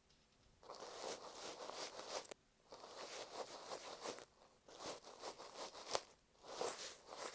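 Bonten ear-cleaning puff brushed over masking tape wrapped on an earphone microphone, making close, scratchy rustling strokes. About four strokes, each a second or two long, with short pauses between them.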